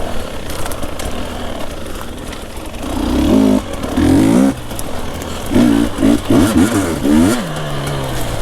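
Two-stroke enduro dirt bike engine revved in short bursts between lower running: two blips in the middle and four quicker ones near the end, as it picks its way over wet sticks in the woods.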